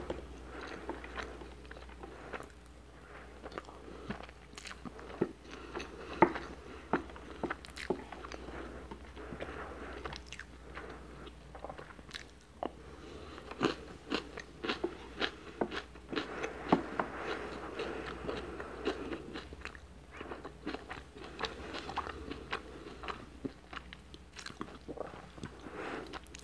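Close-miked chewing of rice, with many short mouth clicks and smacks throughout.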